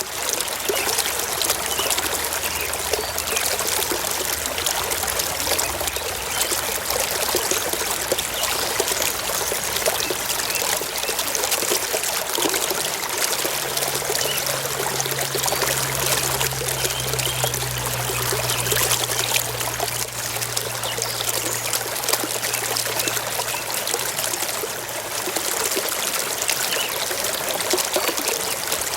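Water of a small stream running and trickling over stones, a steady even rush with no break. A faint low hum sits under it through the middle stretch.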